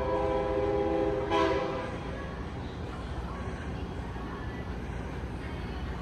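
Train horn sounding one blast of several notes together, ending about two seconds in, over the steady low rumble of a train.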